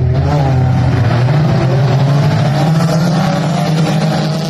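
Dirt track race car engine running hard at steady high revs, its pitch climbing slightly a second or two in.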